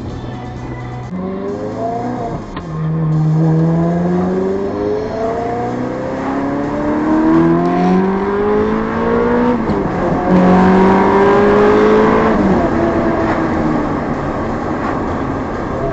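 Ferrari 360's 3.6-litre V8 through a Tubi exhaust, accelerating hard. Its pitch climbs, drops back at each gear change of the manual gearbox, and climbs again several times.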